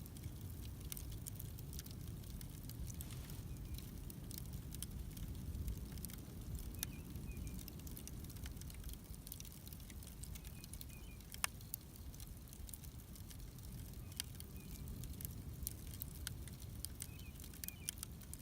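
Wood bonfire crackling: irregular sharp pops and snaps over a low steady rumble, one pop about halfway through standing out as the loudest.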